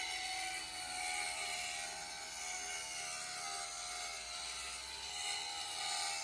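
A power tool running steadily in a metal workshop, a continuous whine over a hiss.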